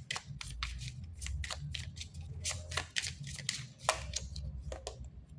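Tarot cards being handled: a run of quick, crisp card snaps and slides, busiest about two and a half to four seconds in.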